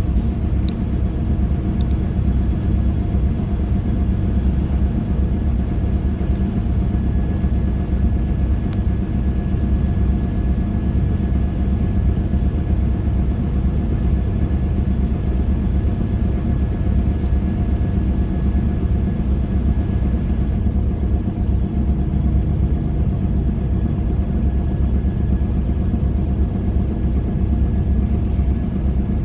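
Steady low engine drone and rumble with a faint constant whine, unchanging throughout, with a couple of small clicks.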